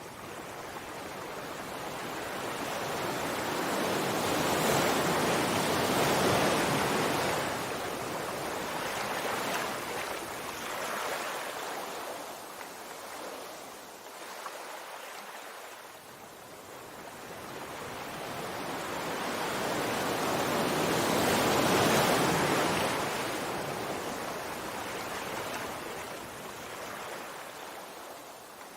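Sea waves rolling in and washing up the shore: two slow surges of surf, the first peaking about five seconds in and the second a little after twenty seconds, each swelling and then fading away.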